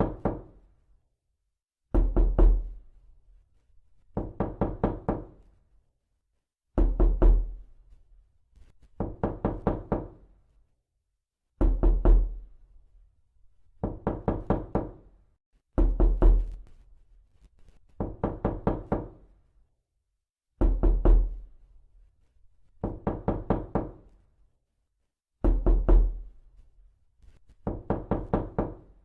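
Knuckles knocking on a door in repeated bursts of four to six quick raps, a new burst about every two to two and a half seconds, each rap ringing briefly.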